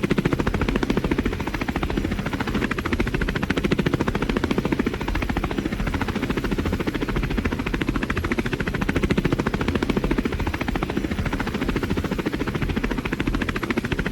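Helicopter running steadily, its rotor blades chopping the air in a fast, even pulse.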